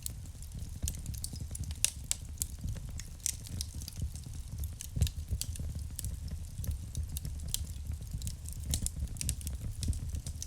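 Wood fire burning in a fireplace, crackling with irregular sharp pops over a low steady rumble of the flames; the loudest pop comes about halfway through.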